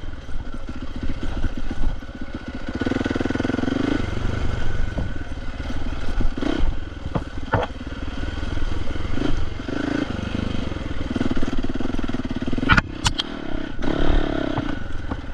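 Dirt bike engine running on a trail, revving up and down as the throttle opens and closes. About 13 seconds in there are a couple of sharp knocks.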